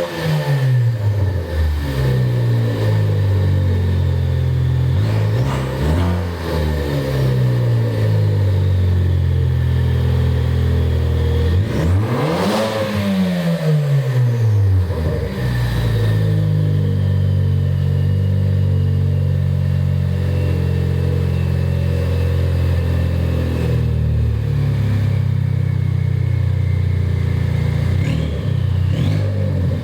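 Ford Focus ST engine through an open exhaust, blipped up and back down several times, the biggest rev about halfway through, then settling to a steady idle.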